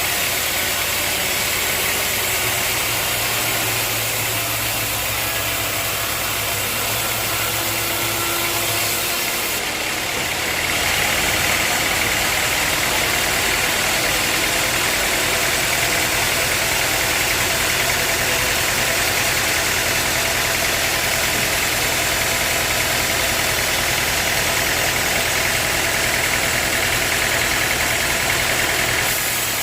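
Sawmill machinery running steadily and loudly. About ten seconds in, the low hum shifts and a brighter hiss comes up and holds.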